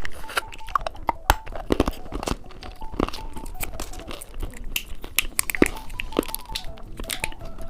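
Close-up crunching and chewing of a hard-candy lollipop, with irregular crackling clicks, over soft background music.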